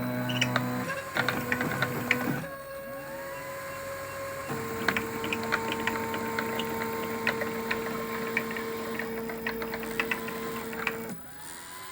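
Stepper motors of a CNC machine driving its axes through a test run: steady whining tones that change pitch as the moves change speed, with rising and falling glides as each move starts and stops, and scattered light clicks. The motor sound drops away near the end.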